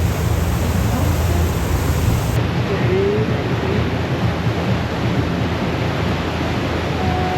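Steady rushing noise of wind and water on a moving tour boat, with a low steady hum underneath.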